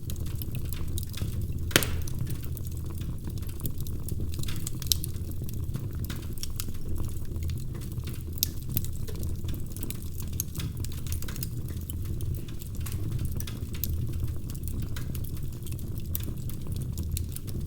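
Wood fire crackling: a steady low rumble with frequent small pops and snaps, a sharper pop about two seconds in.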